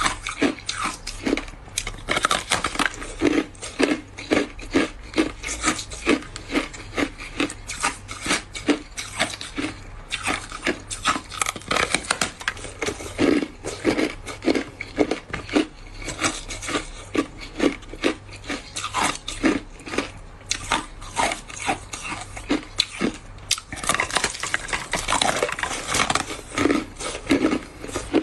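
Ice being chewed with the teeth close to the microphone: a steady run of sharp crunches, about two a second.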